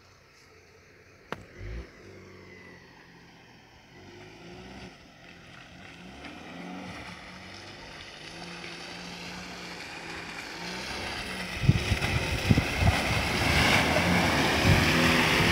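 A motor vehicle approaching, its engine and tyre noise growing steadily louder from faint to close, with a few sharp knocks near the end.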